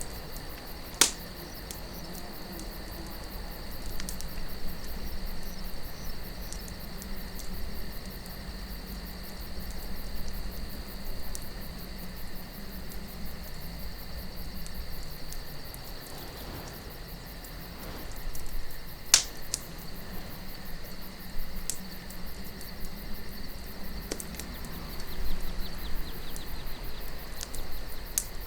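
Campfire crackling with scattered pops, two sharp loud ones about a second in and about two-thirds through, over a steady chirring of crickets and a low wind.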